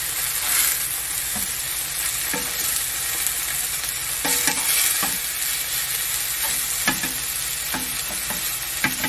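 Enoki mushroom clusters dusted in starch sizzling steadily in oil in a nonstick frying pan. Scattered light clicks and scrapes of metal tongs against the pan as the clusters, browned underneath, are turned over.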